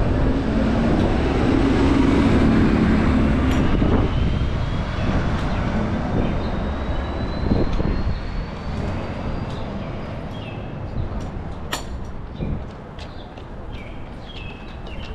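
A heavy vehicle passes close in city traffic: loud at first, then fading, with a thin whine that rises slowly in pitch as it pulls away. There is a single sharp click near the end.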